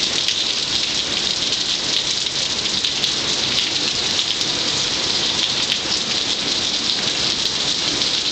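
Steady rain from a rainstorm, an even, unbroken hiss of falling drops.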